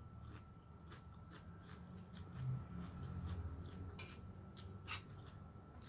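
Faint crisp crunching and small clicks of someone chewing raw vegetable salad close to the microphone.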